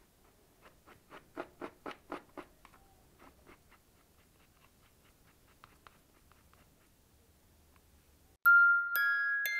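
A brush scrubbing a pleated paper air filter: a quick run of short strokes, about four a second, in the first few seconds, then fainter scattered strokes. Near the end, background music with bright chime tones starts abruptly and is louder than the brushing.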